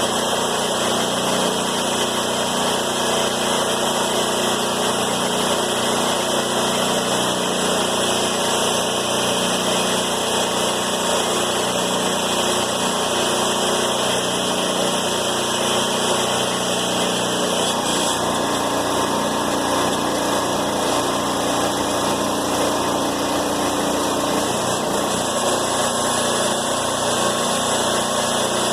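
An engine running steadily, its low note changing about two-thirds of the way through.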